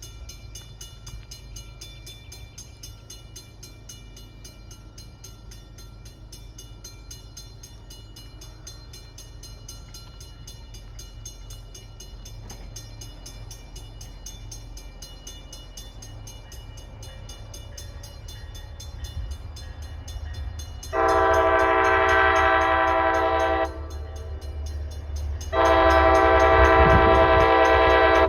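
Approaching commuter train: a low rumble grows steadily louder, then the diesel locomotive's multi-tone air horn sounds two long blasts a couple of seconds apart near the end.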